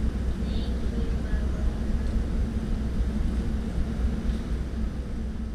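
Steady low rumble of outdoor background noise, even throughout, with only faint small sounds above it.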